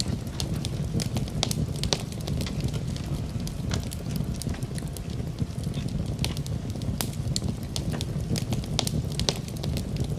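Fireplace fire crackling, with frequent irregular sharp pops over a steady low rumble, mixed with rain.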